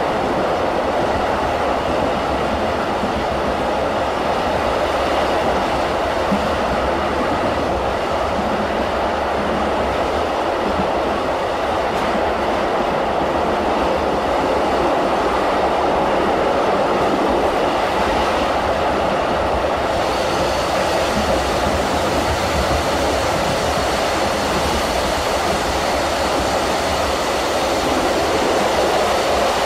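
Running noise inside a BLS passenger train: a steady rumble and hiss of wheels on track, growing brighter about two-thirds of the way in.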